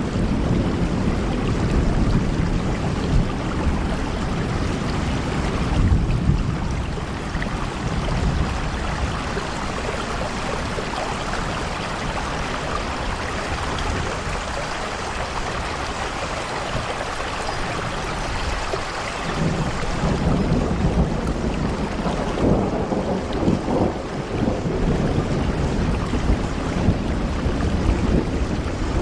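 Steady heavy rain falling on a window pane, with low rumbling that swells near the start and again a little past the middle.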